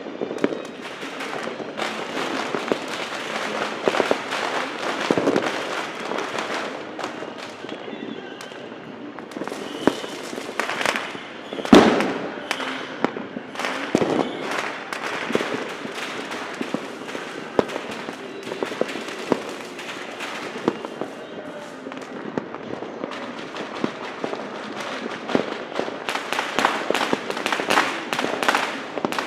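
Fireworks and firecrackers going off continuously: a dense, rapid crackle of many small pops with scattered louder bangs, the loudest one about twelve seconds in, and a thicker run of rapid pops near the end.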